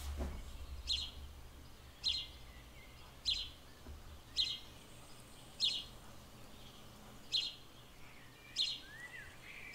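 A bird in a garden calling, one short sharp note repeated at an even pace about once every second, with a few fainter chirps in between, over quiet outdoor background noise.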